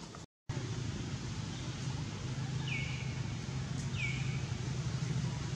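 A bird giving a short call twice, about a second apart, each note dropping in pitch and then levelling off, over a steady low rumble. The sound cuts out completely for a moment near the start.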